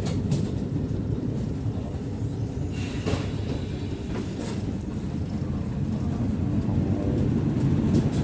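Tram running on street rails over a track switch: a steady low rumble from wheels and motors, with a couple of brief high-pitched wheel squeaks about three and four and a half seconds in.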